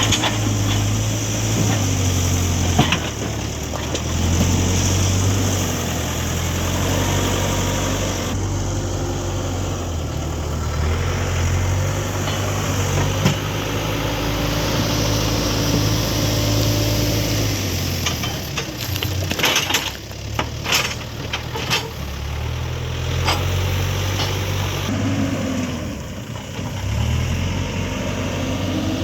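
Diesel engine of a Hidromek HMK 102B backhoe loader running at work, its note rising and falling with the load. Several sharp metal clanks come about two-thirds of the way through.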